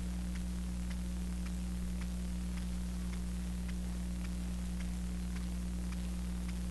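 Steady low electrical hum on the recording, with faint, even ticks about twice a second.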